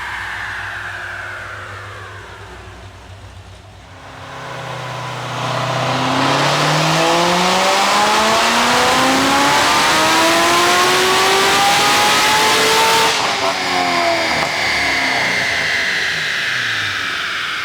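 Corvette Z06 V8 on a chassis dyno making a full-throttle pull. The engine note climbs steadily for about nine seconds through the rev range, then the throttle closes suddenly and the engine and rollers wind down. Before the pull a falling whine fades to a brief lull.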